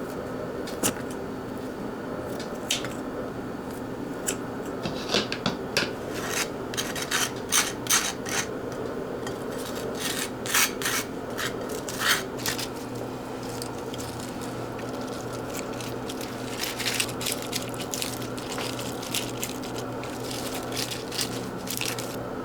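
Kitchen utensils and cookware being handled: scattered clicks, taps and short scrapes, busiest in the middle, over a steady low hum.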